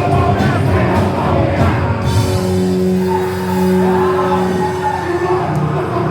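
Punk rock band playing loud, fast music with shouted vocals. About two seconds in the drums thin out and a long note rings for a few seconds before the full band comes back in.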